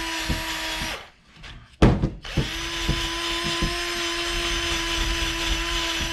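Power wire wheel running against an aluminium windshield wiper motor housing, scrubbing off old grime and oxidation. It stops about a second in, there is a single loud knock, and then it spins back up and runs steadily again.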